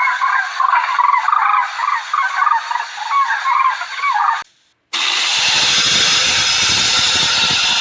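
A flock of domestic fowl calling over one another in rapid, overlapping honks that stop abruptly after about four and a half seconds. After a brief gap, a steady harsh noise with a low rumble starts up and carries on.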